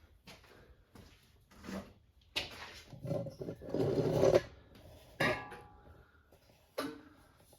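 Scraping, rubbing and knocking as a car windshield is worked loose from its rubber gasket, loudest about three to four seconds in, followed by two sharp clinks, the first ringing briefly.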